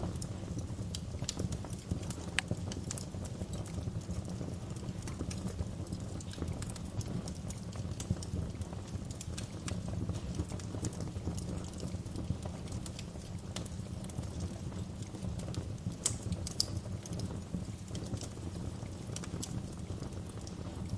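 Wood fire crackling in a fireplace: a steady low rumble of the flames with irregular sharp pops and snaps, a few louder pops about three-quarters of the way through.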